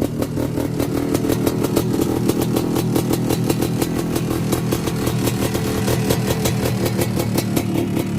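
Two-stroke engine of a CT Racing-built Honda TRX250R ATV running steadily at a fast idle, with a rapid, even firing beat.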